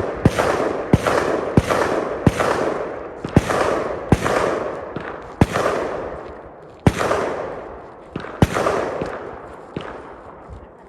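Rifle shots fired one after another, each followed by a long echoing tail. There are about a dozen shots, roughly one every second or less at first, then more spaced out in the second half.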